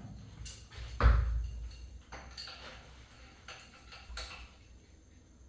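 Metal tools and engine parts knocking and clinking during hand assembly, with one louder knock about a second in and a few lighter clinks after it.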